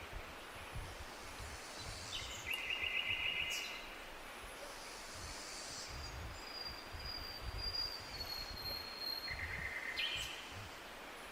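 Forest songbirds singing over a steady low rush of wind. A rapid trill comes about two seconds in and again near the end, and in the middle a long, thin, high whistle slowly falls in pitch.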